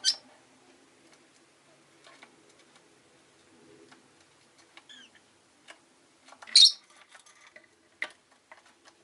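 Rosy-faced lovebird giving short, sharp chirps: a loud one right at the start and another about six and a half seconds in, with a softer call near five seconds. Light clicks and taps are scattered between the calls.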